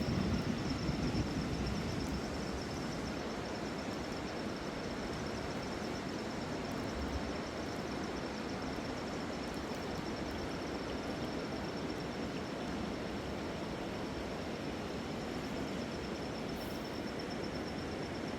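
Steady rushing of a wild river, with a constant high, finely pulsing trill running through it.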